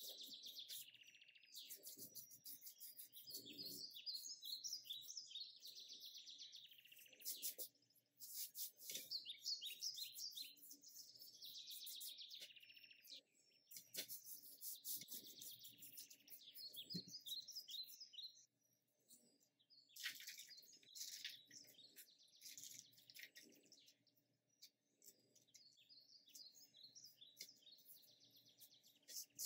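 Faint bird chirping in repeated short phrases, over the soft rustle and crinkle of filo pastry sheets being handled and brushed with butter.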